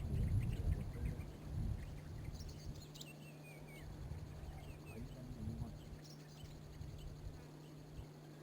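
Wild birds calling faintly in scattered short chirps, one falling in pitch about three seconds in. Low thuds and rumble fill the first second or two, then a steady low hum.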